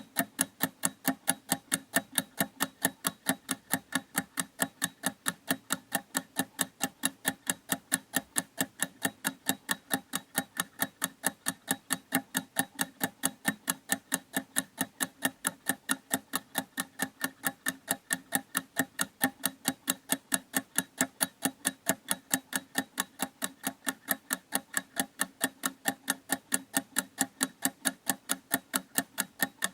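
A clock ticking steadily, with sharp, evenly spaced ticks several times a second.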